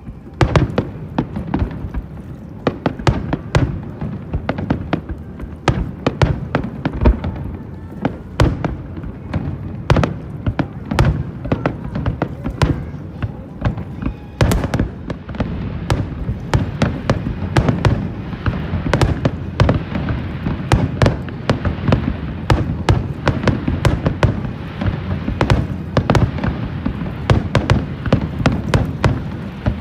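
Fireworks display: a rapid, unbroken run of shells bursting, sharp cracks and booms coming many times a second with crackling between them, thickening in the second half.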